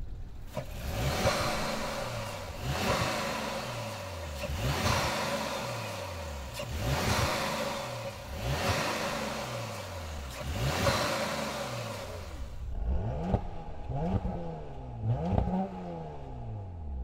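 Porsche Macan S 3.0-litre V6 being revved while stationary: about six sharp blips of the throttle roughly two seconds apart, each falling slowly back towards idle. Near the end come several quicker, shorter blips.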